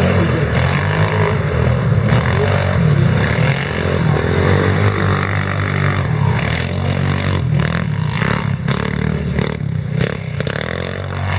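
Quad bike engines running and revving, rising and falling in pitch, with a run of scraping, clattering knocks between about seven and ten seconds in.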